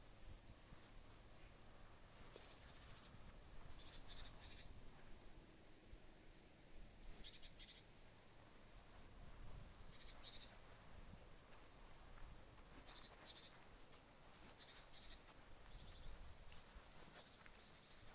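Faint outdoor ambience with short, high bird chirps every few seconds.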